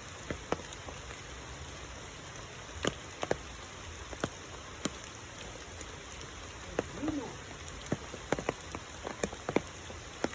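Rain falling with a steady hiss and scattered sharp drops of water landing close by. About seven seconds in, a brief rising-and-falling call is heard.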